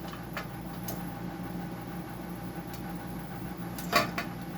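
A running machine hums steadily. A few light clicks come early, and a short clatter of handled parts comes about four seconds in.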